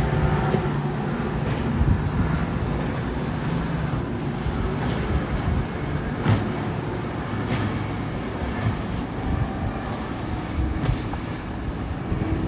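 Fast powerboat engines running steadily at speed: a dense low rumble, with faint knocks every second or so.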